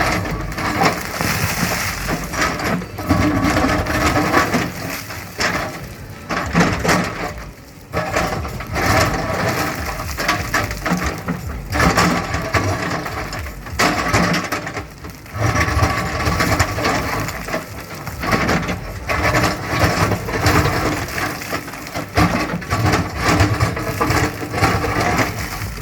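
JCB 3DX Plus backhoe loader digging hard ground: its 74 hp diesel engine works under load while the bucket breaks and scrapes through the soil with many sharp, irregular knocks.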